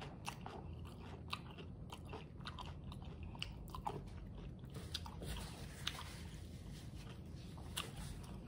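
A person chewing a mouthful of crunchy hard-shell taco with the mouth closed: irregular small crunches of the fried corn shell.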